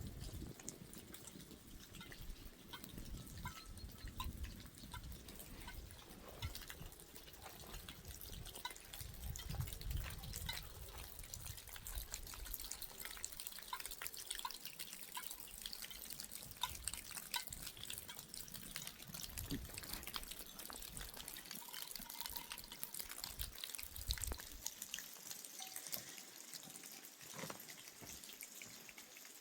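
Faint rainwater dripping: many small, scattered drops over a steady hiss of rain. A low rumble is there in the first half and dies away about halfway through.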